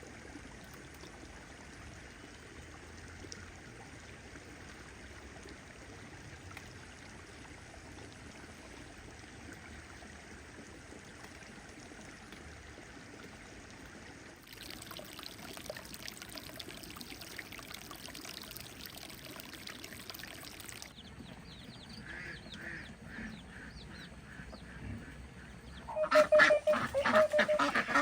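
Steady trickling of water, then, about two seconds before the end, a flock of ducks starts quacking loudly in quick repeated calls.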